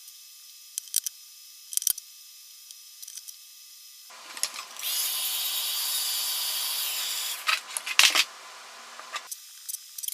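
Heat gun blowing for about five seconds in the middle, a steady hiss over a low hum, softening vinyl skin so its adhesive grips. Before it come a few light clicks and taps of handling, and near its end a pair of loud clicks.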